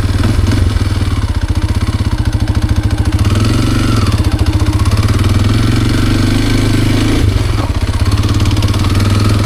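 Kawasaki KLX230R's single-cylinder four-stroke dirt bike engine running, pulsing low at first, then revving up and down from about three seconds in. There is a short click about seven seconds in.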